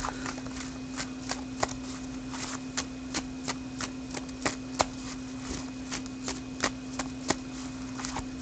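A deck of paper team cards being shuffled by hand: irregular light card clicks, a few a second, over a steady low hum.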